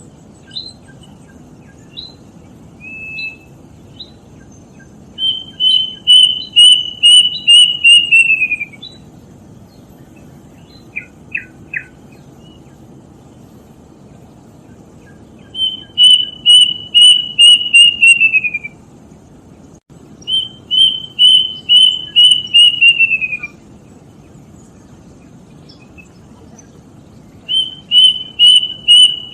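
Kedasih, a Cacomantis cuckoo, singing: four runs of rapid whistled notes, each run sliding down slightly in pitch at its end, with a few short chirps in between.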